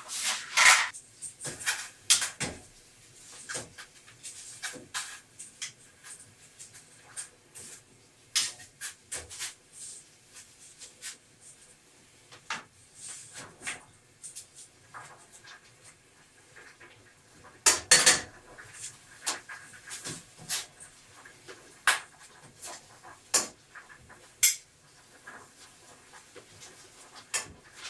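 Kitchen handling sounds: scattered clinks, taps and knocks of utensils and pots, with a louder cluster of clatter about eighteen seconds in.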